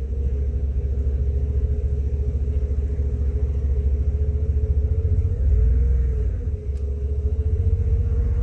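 Steady low rumble of a vehicle heard from inside its cabin, with a steady droning hum over it.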